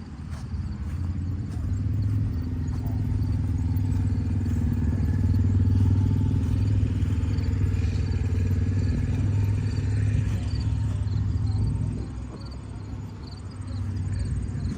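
An engine running steadily, growing louder over the first few seconds and then dropping off about twelve seconds in.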